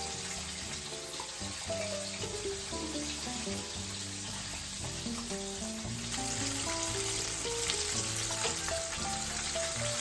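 Breaded chicken frying in hot oil in a cast iron skillet: a steady, dense sizzle that grows a little louder about six seconds in. Background music plays under it.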